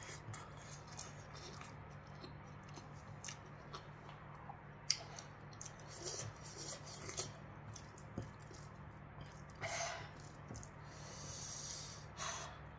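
A person chewing a mouthful of food close to the microphone, with scattered wet clicks and smacks of the mouth and hand. There is one sharper click just before the middle and two short breathy noises later on, over a steady low hum.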